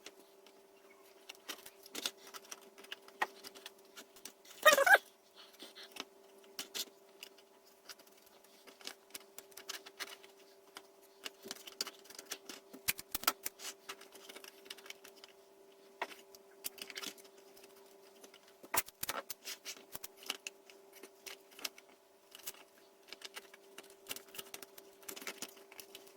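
Irregular small clicks and taps of 3D-printed plastic mask pieces being handled and fitted together, with one louder scraping sound about five seconds in, over a faint steady hum.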